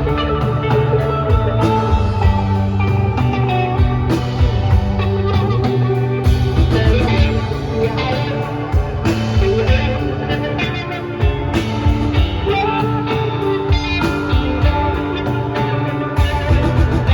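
Live rock band playing: electric guitar over bass and a drum kit at a steady beat.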